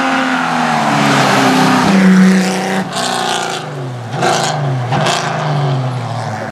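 Rally car engine revving hard through several gear changes, its pitch climbing and dropping repeatedly, with three short bursts of harsh noise in the second half.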